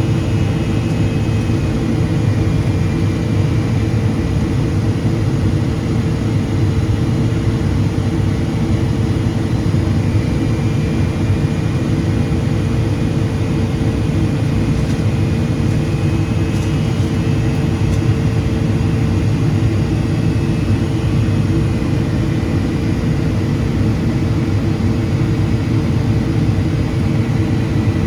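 Steady in-cabin noise of a Boeing 777-200ER on its descent: the rush of air over the fuselage with the hum of its GE90-92B turbofans, including a steady low tone, unchanging throughout.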